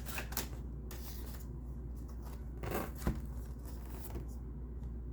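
Tarot cards being handled: a few brief papery slides and flicks as cards are drawn and laid down, with a longer slide a little under three seconds in and a small click just after. A steady low hum lies underneath.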